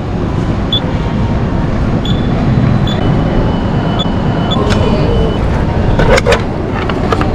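A loud, steady low rumble of a vehicle running, with several short high beeps and a couple of sharp knocks about six seconds in.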